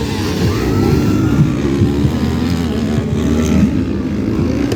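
Several motocross bikes racing on the track, their engines revving up and down over one another.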